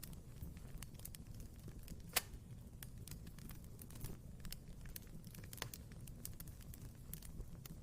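Wood fire crackling in a fireplace: irregular sharp snaps and pops over a low steady rumble, with one louder pop about two seconds in and another about five and a half seconds in.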